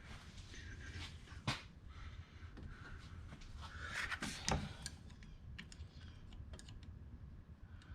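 Scattered small clicks and knocks of engine parts and hand tools being handled during reassembly, with a sharp click about a second and a half in and a louder scrape and click around the middle.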